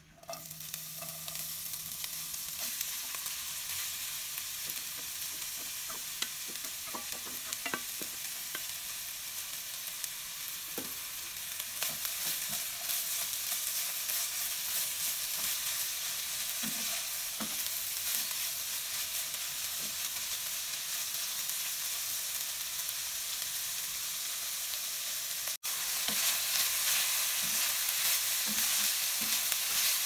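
Shredded ginger sizzling in hot oil in a nonstick wok, the frying starting suddenly as the ginger goes in and then running steadily. A spatula scrapes and taps in the pan now and then as the ginger is stirred.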